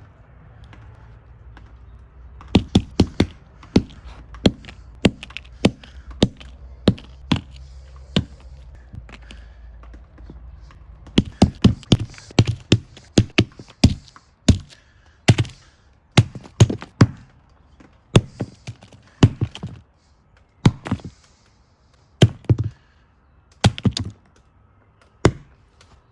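Hammer repeatedly striking the parts of a broken iPhone 4: sharp knocks, a few at first, then quick clusters of two to four blows with short pauses in the second half.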